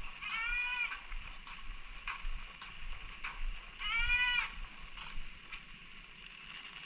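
An animal bleating twice, two short wavering calls about three and a half seconds apart, over the steady hiss of light rain with scattered drip ticks.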